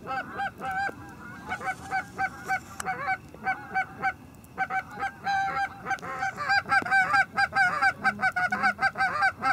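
Canada geese honking: a rapid, continuous run of short honks that grows louder and denser over the last few seconds.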